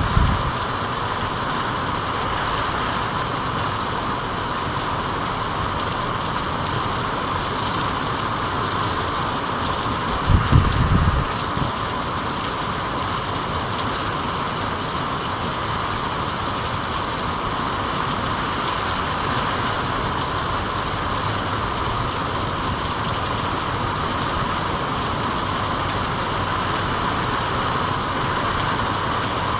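Steady rain, an even hiss that does not let up, with a brief low rumble about ten seconds in.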